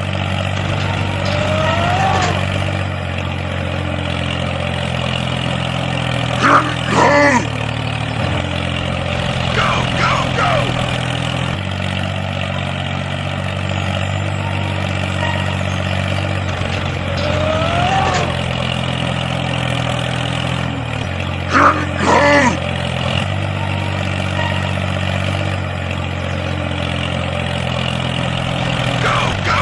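Steady low engine drone, like a tractor running, holding its pitch with small shifts every few seconds. Over it, short swooping tones rise and fall several times.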